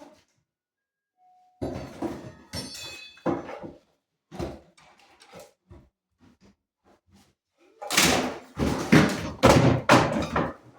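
Heavy thuds and knocks from demolition work stripping a room, with a loud run of crashing impacts near the end.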